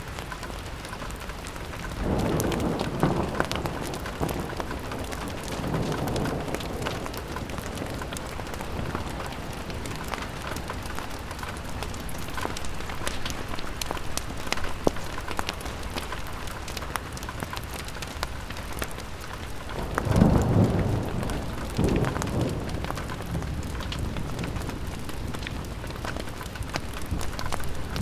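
Rain on window glass: a steady hiss scattered with sharp ticks of drops. Low rumbles swell and fade, a couple of seconds in, again around six seconds, and most strongly about twenty seconds in.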